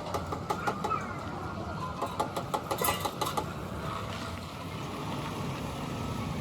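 Quick, irregular sharp clicks and taps in two runs, one at the start and a longer one from about two seconds in, over a steady low rumble.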